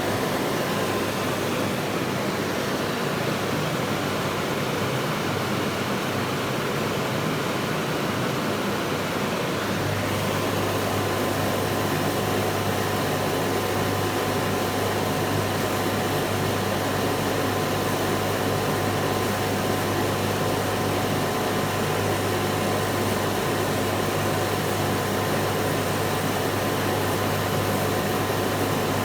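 CNC laser cutter running while it cuts a box, a steady machine whir. About ten seconds in, a low hum and a steady higher tone join it.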